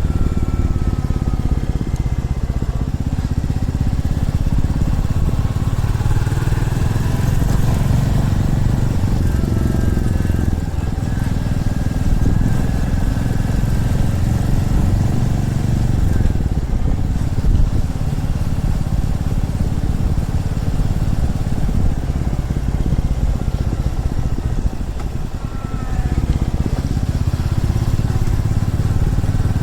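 Motorcycle engine running steadily while riding, its pitch rising and falling with speed, and it eases off briefly a little before the end.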